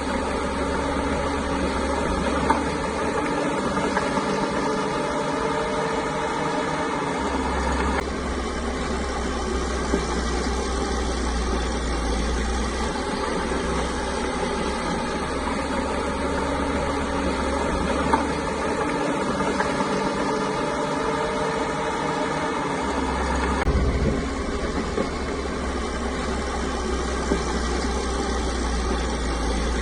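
Caterpillar bulldozer's diesel engine running steadily, with a few sharp metallic knocks. A deep rumble comes and goes abruptly several times.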